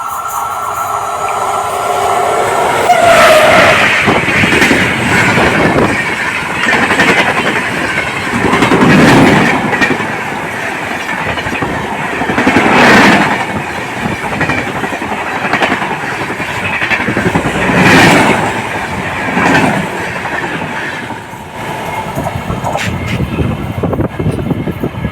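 Express passenger train hauled by an electric locomotive running past close by, its horn tapering off in the first three seconds. Then steady wheel-on-rail clatter with a loud surge every four to five seconds as the coaches go by.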